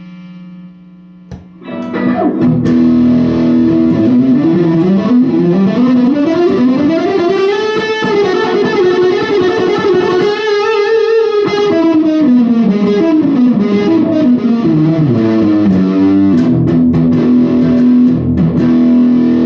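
Electric guitar, a Reverend Charger HB on its bridge pickup, played through a TC Electronic Grand Magus distortion pedal into a Blackstar Debut 50R amp. A quiet held note fades out, a click follows about a second and a half in, and then a loud distorted line of notes climbs in pitch, bends, and runs back down to a held low note near the end.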